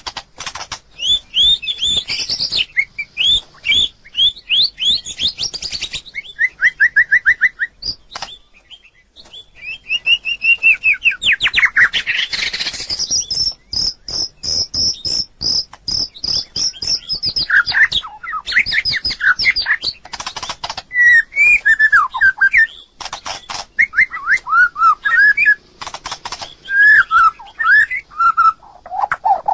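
White-rumped shama singing a long, varied song of whistled phrases, fast note series, rising and falling sweeps and a high trill, broken up by bursts of dry rattling clicks.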